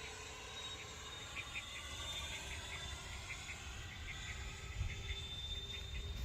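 Twin electric ducted-fan RC model jet flying at a distance, heard as a thin steady whine over a low rumble, with short faint chirps repeating through the middle.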